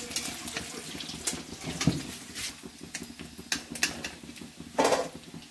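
Paneer cubes frying in hot oil in a kadhai, sizzling steadily, while a metal slotted ladle clicks and scrapes against the pan as the pieces are turned and lifted out.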